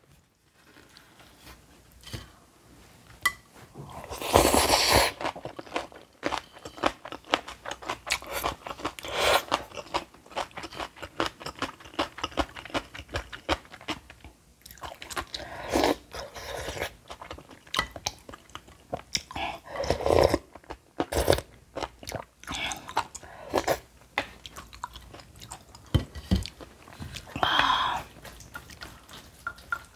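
A person chewing and crunching mouthfuls of bibimbap with crisp seasoned old cucumber (noak muchim). Many small crunches, with louder, fuller bursts every few seconds.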